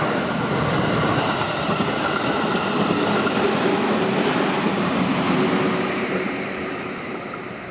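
JR Central 373 series electric multiple unit running past on the rails. The train noise holds loud for several seconds, then fades away near the end.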